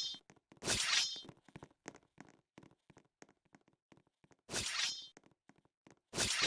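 Crunching bites of hard food close to the microphone: three short loud crunches with small clicks and smacks between them.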